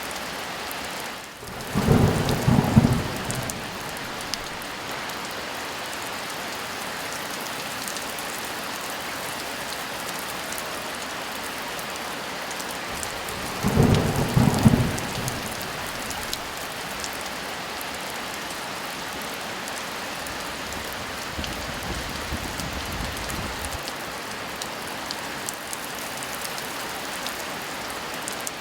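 Heavy rain falling steadily, with two loud thunderclaps, one near the start and one about halfway through, and a fainter roll of thunder later on.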